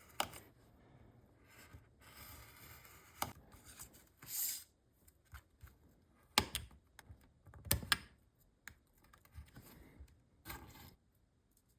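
A knife scraping and cutting a thin strip of wood to shape a small propeller: faint irregular scrapes and shaving hisses with scattered sharp clicks, and a few louder taps of the tool and wood on the work surface past the middle.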